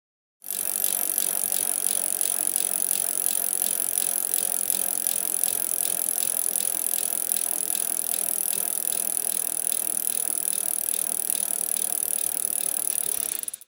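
Rapid, steady mechanical clicking, like a fast ratcheting rattle, that starts abruptly about half a second in and cuts off just before the end.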